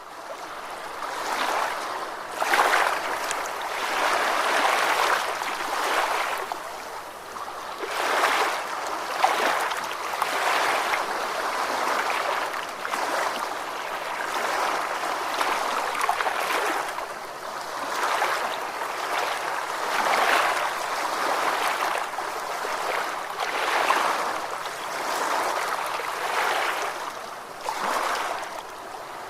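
Ocean waves washing in, a continuous hiss of surf that swells and eases every two seconds or so.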